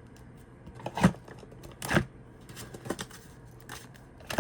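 Tarot cards and deck packaging being handled: a handful of short taps and clicks, about one a second.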